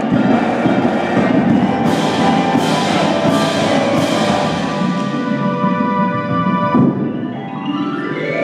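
High school indoor drumline and front ensemble playing: drums and mallet keyboard percussion with sustained chords, four cymbal-like crashes about two-thirds of a second apart a couple of seconds in, and a rising sweep in pitch near the end.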